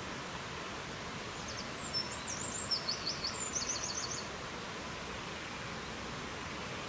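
Steady rushing wind noise with a small songbird singing one short, high phrase about two seconds in: a few quick chirps running into a fast trill, lasting about two and a half seconds.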